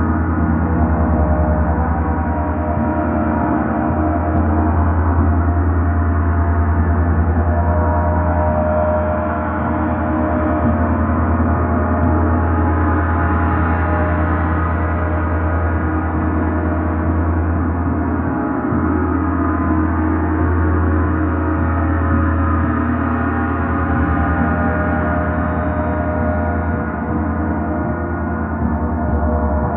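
A large gong played in a continuous wash. It sounds as many overlapping ringing tones over a deep hum, at a steady level with no pauses.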